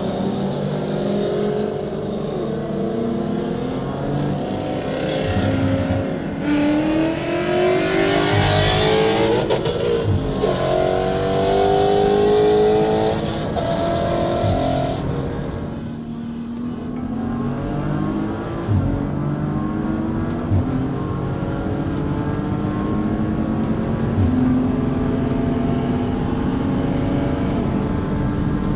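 Car engine at full throttle, climbing in pitch through long pulls in successive gears, with drops at upshifts about ten and fifteen seconds in. After that it climbs more slowly and steadily.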